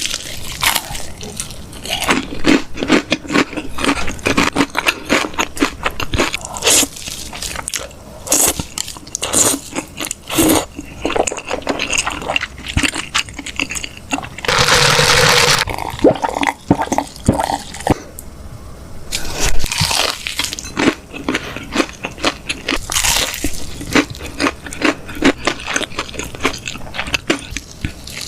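Close-miked eating of chicken: crunchy bites and chewing in quick, irregular crackles throughout, with one longer, louder crunching stretch about halfway.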